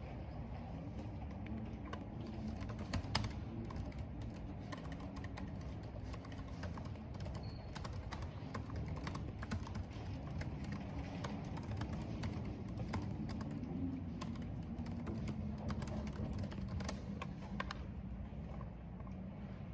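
Computer keyboard typing: irregular keystrokes clicking steadily, with one louder key hit about three seconds in. Underneath runs a steady low rush of wind and rain.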